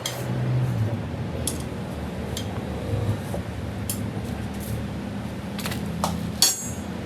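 Metal objects clinking and knocking now and then, with one louder ringing metal strike near the end, over a low steady hum.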